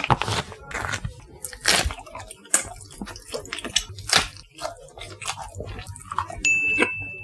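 Close-miked biting and chewing of latiao, spicy Chinese wheat-gluten snack strips, as a string of irregular crunches and chews. A steady high tone comes in near the end.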